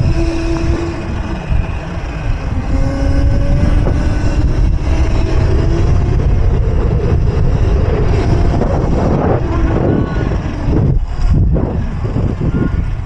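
Electric mini bike riding along: a steady motor whine that slowly rises in pitch in stretches, under heavy wind rumble on the microphone.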